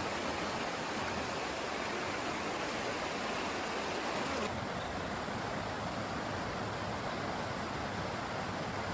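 A river flowing, heard as a steady rushing wash of water noise; the higher hiss in it drops a little about halfway through.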